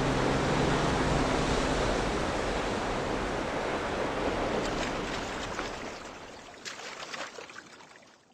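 Huangguoshu Waterfall's falling water, a dense, steady rush that fades away toward the end, with a few sharper splashes near the end.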